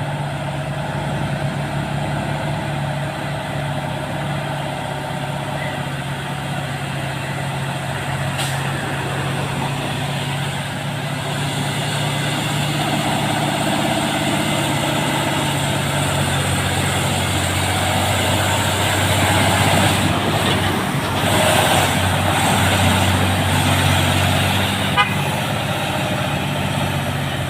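Diesel engine of a heavy truck, loaded with oil palm fruit, labouring slowly up a steep climb: a steady low drone. About halfway through its note drops and the engine and tyre noise grows louder.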